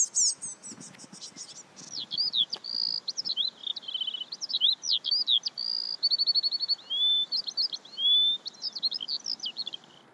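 A songbird singing a long, varied song of quick chirps, slurred whistles and trills, phrase after phrase with hardly a pause, cutting off abruptly near the end.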